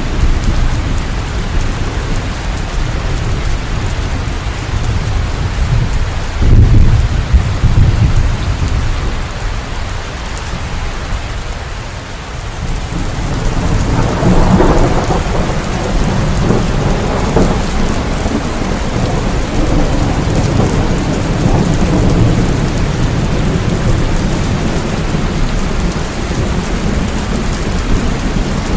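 Steady rain falling, with thunder: a deep low rumble about six seconds in and a longer rolling rumble from about halfway through.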